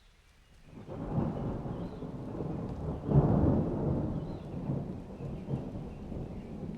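A clap of thunder rolls in with rain, after a near-quiet start. It swells from about a second in, is loudest around three seconds in, then rumbles slowly away while the rain goes on.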